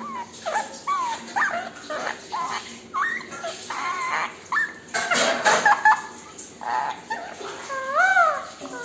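Ringneck parrot calling: a quick run of short chirps and squawks that slide in pitch, ending with a couple of rising-and-falling whistles.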